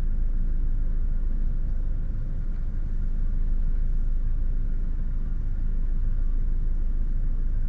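Steady low rumble of a parked Ford car's engine idling, heard inside the cabin.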